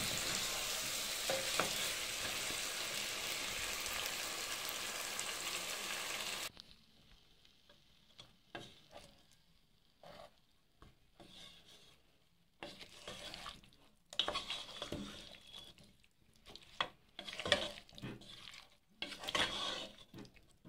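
Curry of potatoes, carrots and meat sizzling steadily in a nonstick frying pan; the frying noise cuts off suddenly about six seconds in. After that, a wooden spoon stirs and scrapes the food around the pan in short, irregular bursts.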